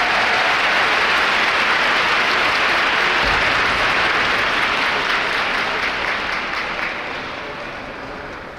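A large audience applauding, a dense, steady wash of clapping that stays loud and then dies away over the last few seconds.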